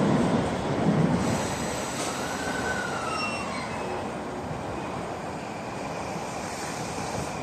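Train running past the platform, its rumble fading, with a thin squeal that rises and then falls about two seconds in.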